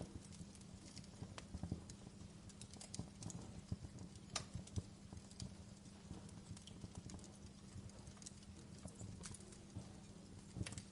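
Wood fire in a fireplace crackling, with irregular sharp pops and snaps over a low steady rumble; one louder pop about four seconds in.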